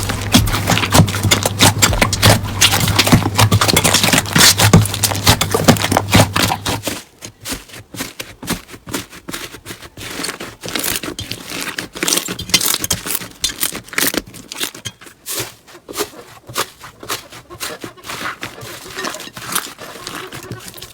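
Slime being squeezed and poked by hand, making a dense run of crackling clicks and small pops. About seven seconds in, the sound drops off suddenly and a low hum stops; the quieter handling that follows gives softer, sparser clicks.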